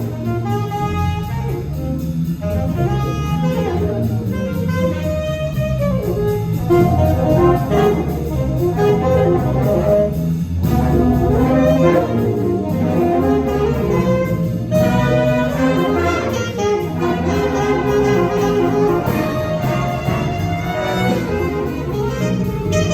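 High school jazz big band playing a swing chart, saxophones and brass over a walking bass line and drums.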